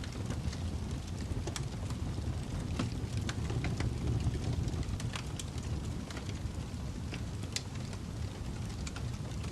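Fireplace crackling: a steady low rumble of burning with scattered, irregular sharp pops and crackles.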